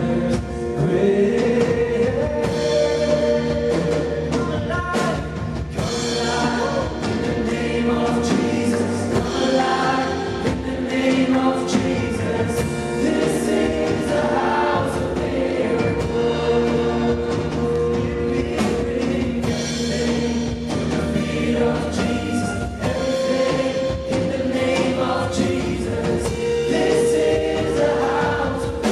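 Gospel worship music: a group of voices singing over held chords, with regular drum strokes.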